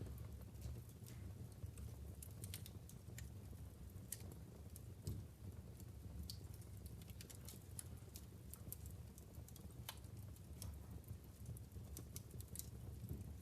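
Wood fire crackling in a fireplace: irregular sharp pops and snaps from the burning logs over a low steady rumble, with one louder pop about five seconds in.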